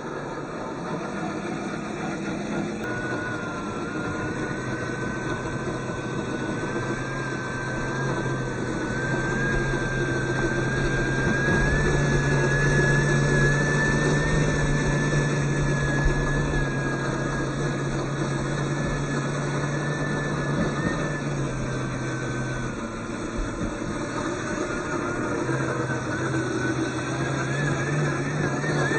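Radio-controlled scale truck driving: a thin whine that wavers in pitch as the speed changes, over a low steady hum that steps up and down in pitch a few times.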